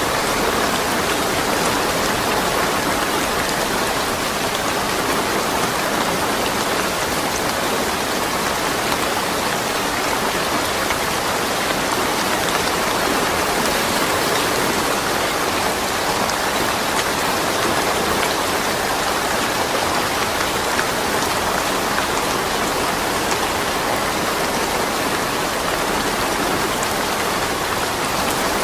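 Steady rain falling with no thunder: an even, unbroken hiss with faint scattered drop ticks.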